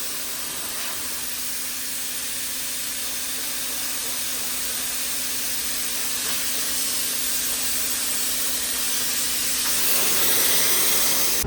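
Compressed air hissing steadily from an air tool, with a low steady hum underneath; the hiss gets a little louder near the end.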